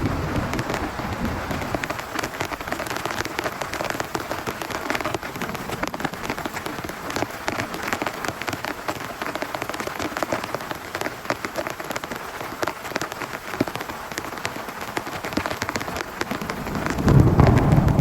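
Heavy rain on tent fabric, a dense steady patter of drops. About a second before the end, a low rumble of thunder swells up.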